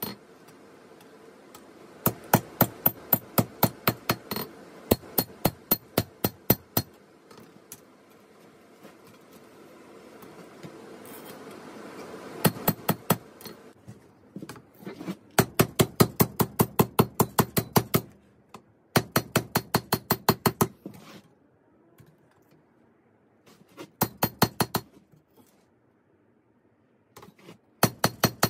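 Hand hammer striking hot steel on an anvil in quick runs of several blows a second, each blow ringing, with pauses between the runs: forging a 5160 spring-steel machete blade.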